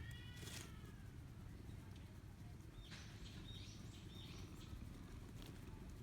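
Faint bird chirping: a few short, quick chirps in the middle, over a steady low background rumble. A short pitched call falls in pitch right at the start.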